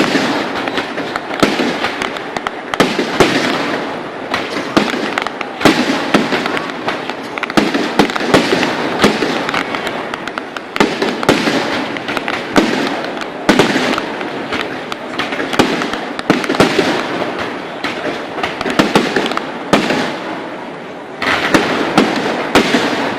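Fireworks display going off without a break: many sharp bangs, several a second, over continuous crackling.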